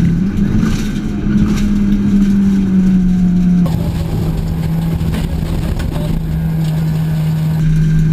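Peugeot 206 1.6 16v rally car's four-cylinder engine held at high revs on a gravel stage, its note steady with a slight rise in the first few seconds, over tyre and road noise, heard from inside the car. The tone of the sound changes about three and a half seconds in and changes back near the end.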